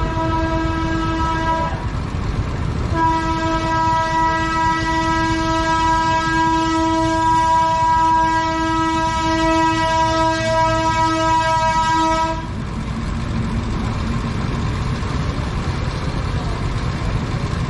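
A horn held in two long blasts at a single steady pitch: the first ends about two seconds in, the second runs from about three seconds in until about twelve seconds. A steady low rumble of traffic lies beneath.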